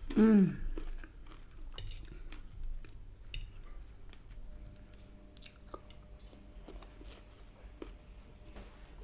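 Close-up chewing and biting of takeaway food, with small crunchy clicks. Just after the start a short, loud, falling hum of the eater's voice.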